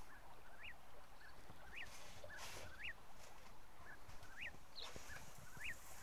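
A bird calling over and over, five times, roughly once a second: each call a short low note followed by a higher note that rises and falls.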